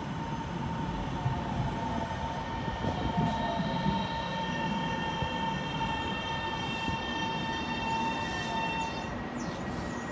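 Taiwan Railway electric train moving through a station: steady rumbling running noise with a steady high-pitched whine of several tones, most of which cut off about nine seconds in.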